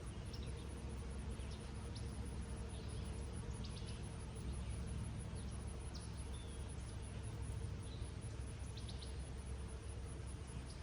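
Steady hiss of light summer rain falling over an open meadow, with a low rumble under it. Birds give short chirps here and there above it, several times over.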